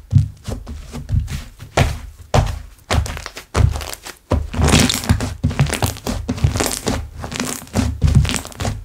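Hands squishing, pressing and poking slime, giving irregular soft thuds with crackling.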